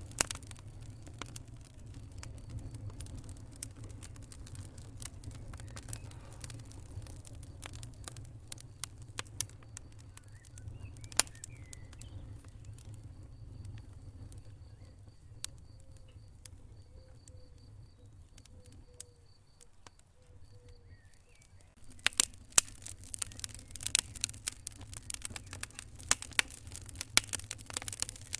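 Wood fire crackling and popping in a fireplace over a steady low rumble of the flames. The pops thin out and quieten for several seconds in the middle, then come thick and loud again over the last six seconds or so.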